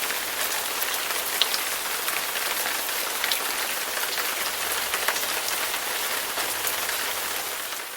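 Steady rain falling on a surface, an even hiss with scattered sharp drop taps, fading down near the end.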